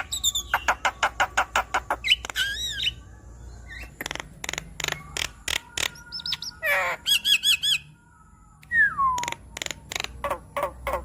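Javan myna (jalak kebo) singing a varied song. It gives fast runs of sharp clicking notes, harsh squawks and wavering whistles, with a falling whistle after a short pause near the middle.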